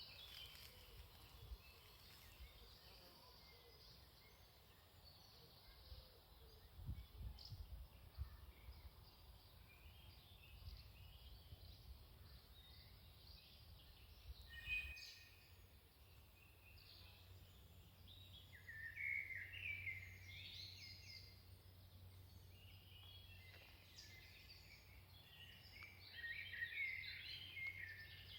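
Faint songbirds singing, with short phrases scattered throughout and louder bursts of song about two-thirds of the way in and near the end. A brief low rumble about a quarter of the way in.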